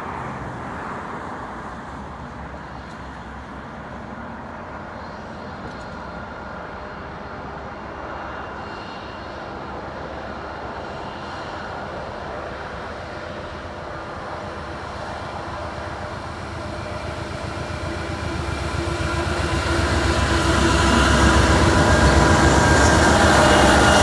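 Diesel locomotives of a CN freight train approaching and coming alongside, their engine rumble steady at first, then growing steadily louder over the last several seconds as the lead units draw close.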